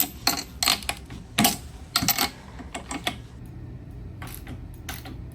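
Irregular metallic clicks and clinks of a socket and spark plugs being handled while new plugs go into a snowmobile's Polaris 600 triple engine. The clicks come thickest in the first couple of seconds, then a few fainter ones.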